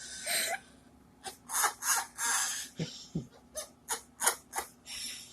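A run of short, breathy, unpitched huffs and hisses, like stifled laughter, about ten of them with brief gaps between.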